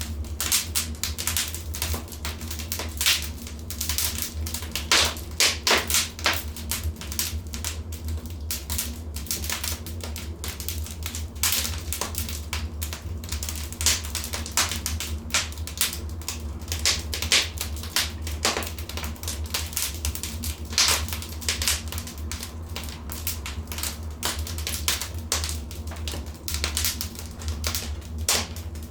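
Wood fire burning in a fireplace, crackling with dense, irregular sharp pops over a steady low rumble.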